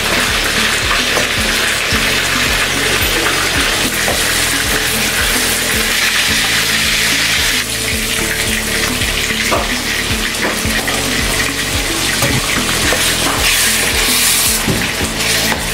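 Chopped rape greens, onion and fish sizzling steadily in a hot metal pan, with a spatula scraping and knocking against the pan as the food is stirred.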